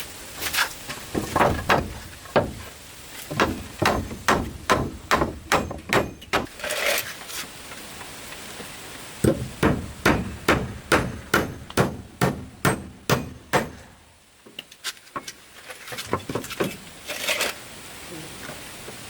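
Hammer strikes, about three a second, in several runs with short pauses between them, the last run fainter.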